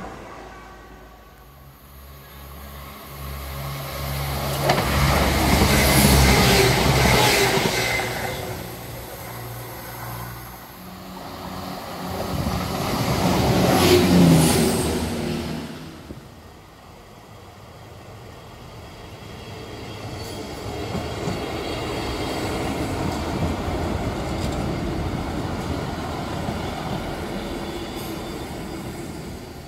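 Diesel passenger trains passing one after another. One swells and fades with a low engine drone, loudest about six seconds in. A CrossCountry diesel unit rushes past close along the platform, peaking about fourteen seconds in and cutting off suddenly. Then an East Midlands Railway regional diesel unit runs through the level crossing with a steadier, quieter rumble.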